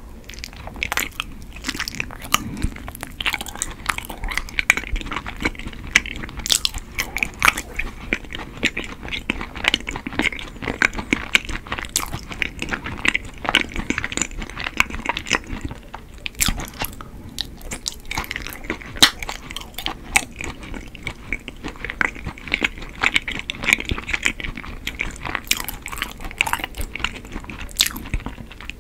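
Close-miked chewing of chewy Korean rice cake (tteok): a bite into the soft cake, then steady chewing full of quick small wet clicks and smacks.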